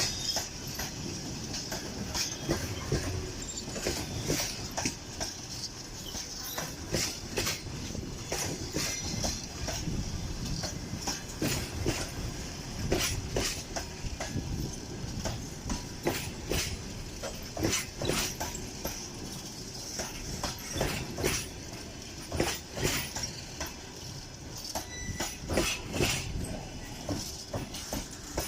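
Passenger train hauled by an EP1M electric locomotive rolling past, a steady rolling noise broken by many sharp clicks of the wheels going over the rail joints.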